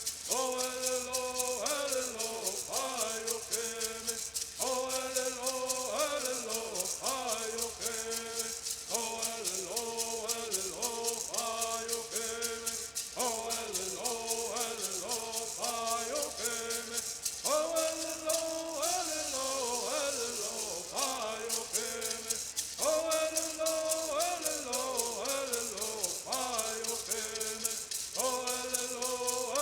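Southern California bird singing: voices singing repeated phrases that step and slide downward, over a steady, fast shaking of rattles.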